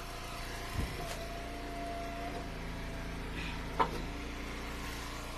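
Eastonmade wood splitter's engine and hydraulics running steadily, with a higher whine held from about one to two seconds in as the splitter works, and two short knocks, the sharper one near four seconds in.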